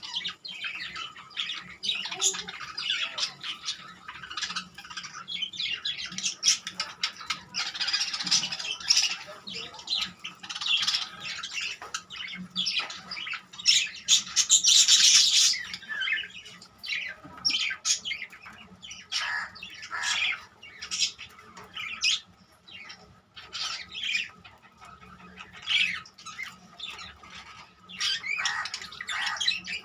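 Birds squawking and calling over and over in short, harsh calls, with a loudest, longer burst about halfway through.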